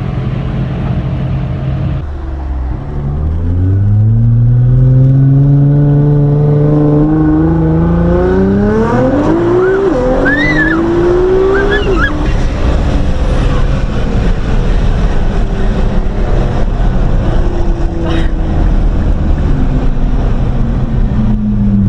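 Nissan GT-R R35's twin-turbo V6, heard from inside the cabin, pulling hard under full throttle: its pitch climbs steadily for several seconds, drops sharply at two quick upshifts about halfway through, then settles into loud engine and road noise at speed. A woman's excited squeal comes in around the gear changes.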